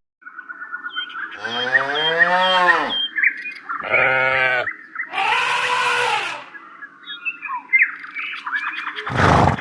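Farm animals calling: three long, pitched lowing calls like cattle mooing, with birds chirping. A short, loud, noisy burst comes near the end.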